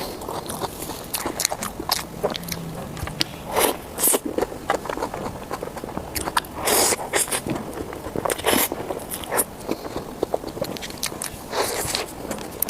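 Close-miked eating: irregular bites and chewing with crackly, wet mouth sounds, a few bites louder than the rest.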